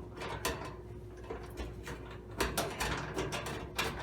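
Small metal clicks and knocks as bolts are fitted and tightened by hand with a 1/4-inch socket, securing a new heating element in a Kenmore dryer's metal housing. The clicks come irregularly, bunched together a little past the middle.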